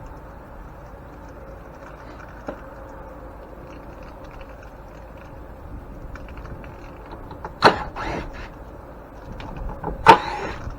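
Metal parts and tools clicking and clanking while a grain mill is being taken apart, with two sharp, louder knocks in the second half, over a steady low hiss.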